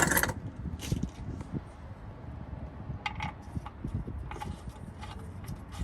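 Scattered light clicks and taps from handling tools and parts under a car, over a steady low rumble.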